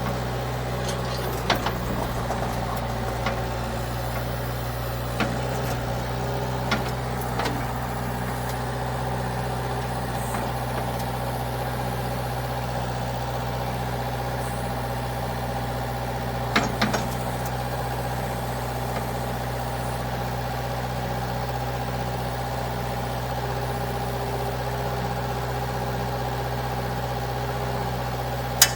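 Sawmill engine idling steadily, with a few sharp knocks and clanks: several in the first eight seconds, a cluster about 17 seconds in, and one just before the end.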